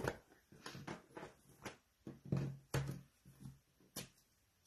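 Soft, scattered taps and rustles of hands working craft materials at a table, about a dozen short separate sounds.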